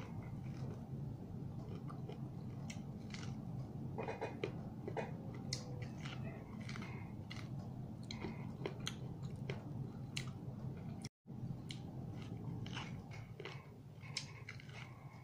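Person biting and chewing grilled corn kernels off the cob: irregular short crunches and mouth clicks, over a steady low hum. The sound drops out completely for a moment about eleven seconds in.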